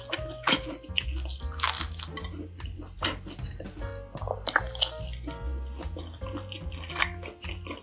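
Close-up wet chewing and mouth sounds of someone eating pizza, with short crackles and smacks, over background music with low bass notes.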